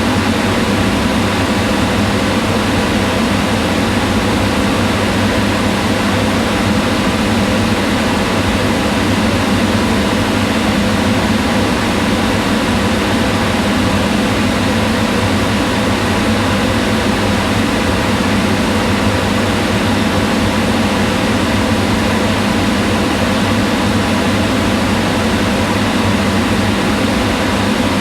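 Kitchen range hood fan running steadily: an even rush of air over a low hum, unchanging throughout.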